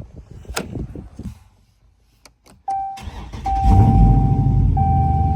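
A car engine is started: it cranks about three seconds in, catches and settles into a steady idle. A car's electronic warning chime sounds over it as a held tone with short breaks. A few clicks come before this.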